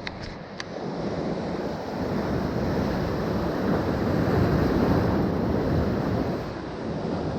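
Sea surf: a wave breaking and washing in, swelling over a few seconds and then easing, with wind on the microphone. A few light clicks sound right at the start.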